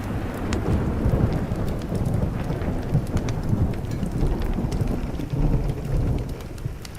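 Thunder rolling in a deep low rumble that fades out near the end, over steady rain, with the scattered small crackles of a wood fire.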